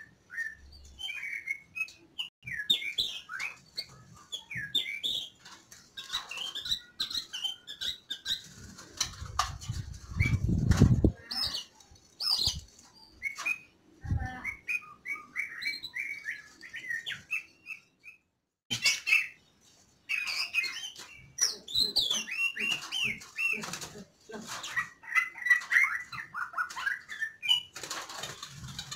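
White-rumped shamas fluttering and scuffling in a wire breeding cage: repeated wingbeats and sharp knocks against the mesh, mixed with many short chirping calls, as the pair chase and fight during a forced pairing. A loud low rumble comes about ten seconds in.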